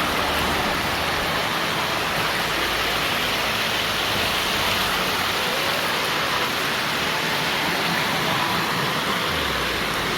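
Steady rushing of water pouring down a waterfall over rocks: an even, continuous hiss.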